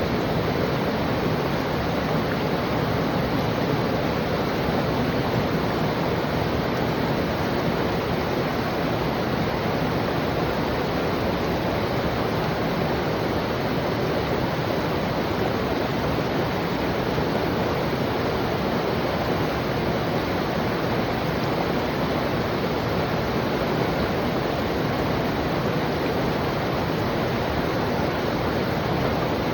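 River water flowing and tumbling over rocks, a steady rushing with no breaks.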